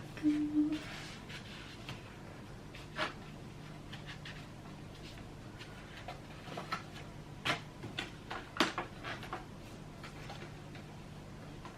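Scattered light clicks and taps of a picture frame, mat and plexiglass being handled and fitted together, with a faint steady hum underneath.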